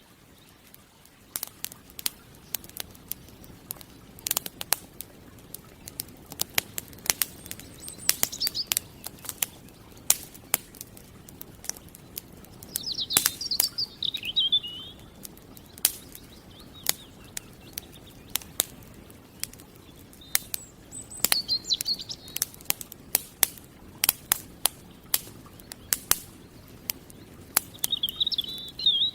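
Campfire crackling and popping, with sharp snaps at irregular intervals over a low hiss. A small bird chirps in short bursts a few times: around 8 seconds in, around 13 to 14 seconds, around 21 to 22 seconds, and near the end.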